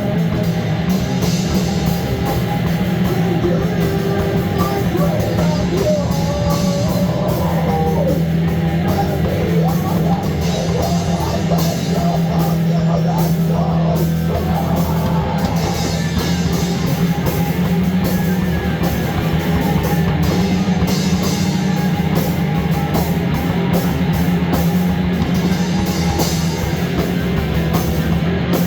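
Loud rock music in a heavy-metal style, with guitar playing over a dense, unbroken backing.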